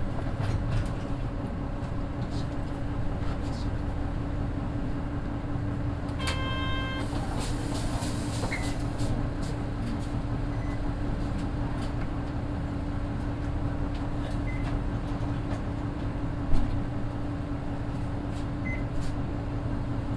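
Inside a Mitsubishi Fuso Aero Midi bus, its naturally aspirated 6M61 diesel running with a steady hum at an unchanging pitch. A short electronic chime sounds about six seconds in, and a single knock comes late on.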